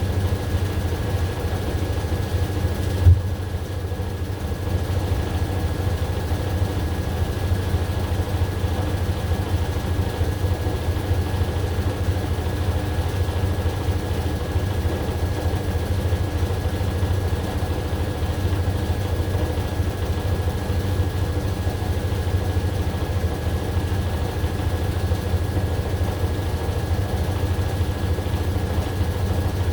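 AQUA AQW-DX12M front-loading drum washing machine running with a steady motor hum and drum noise. There is one short knock about three seconds in.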